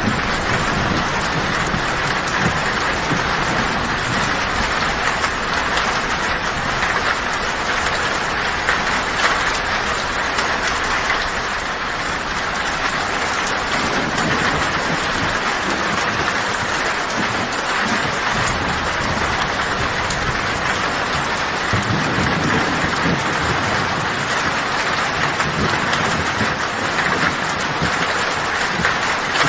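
Heavy rain falling steadily on a tin roof, with low thunder rumbling underneath at times: near the start, around the middle and again later.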